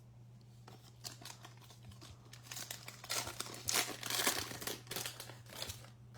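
Crinkly plastic wrapper of a trading card pack being torn open and crumpled, a run of crackling that is loudest in the middle.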